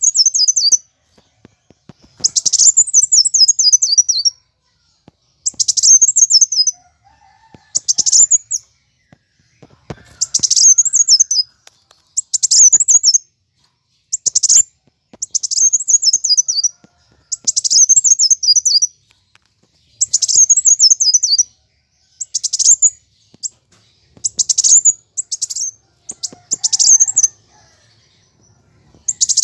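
Kolibri wulung (a sunbird) singing its aggressive fighting song: about a dozen high, fast twittering phrases, each a second or two long and made of quick falling notes, repeated every couple of seconds with short pauses between them.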